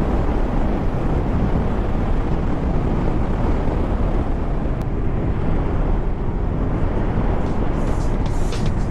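Motorcycle on the move: steady wind rush buffeting the helmet-mounted camera's microphone, with the Kawasaki Ninja 650's engine running under it.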